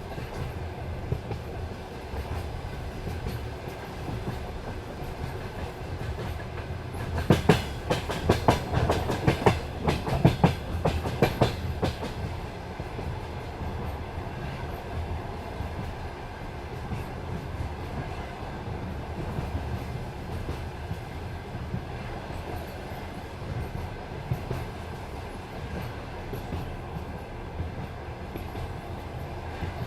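Passenger train wheels running on the rails with a steady low rumble and occasional clacks at rail joints. From about 7 to 12 seconds in comes a dense run of loud, rapid clacks as the wheels cross a set of points.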